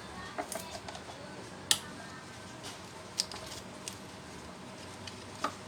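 Scattered light clicks and clinks of parts or tools being handled during work on a jackhammer, the sharpest about a second and a half in, over a faint steady hum.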